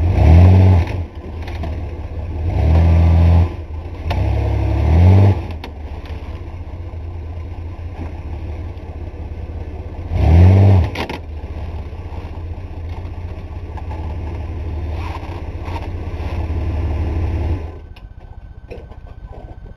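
A 1985 Chevy S10 pickup's engine working hard, revved in four loud bursts that each rise in pitch, and running steadily between them. The engine sound drops away sharply near the end.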